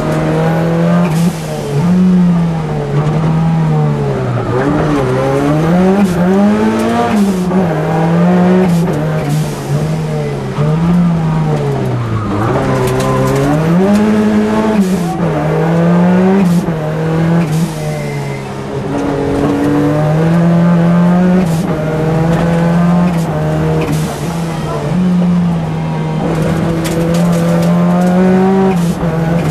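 In-cabin sound of a Ford Sierra Cosworth rally car's turbocharged four-cylinder engine driven hard on a stage. The engine note climbs and drops again and again as the driver goes through the gears and brakes for corners.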